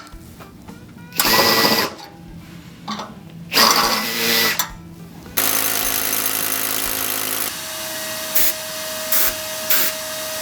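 A power drill driver runs the nuts up in two short whirring bursts. About halfway through, a steady loud mechanical noise sets in and keeps going.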